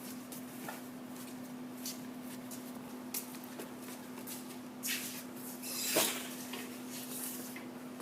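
A steady hum with scattered light clicks and knocks; the loudest knock comes about six seconds in.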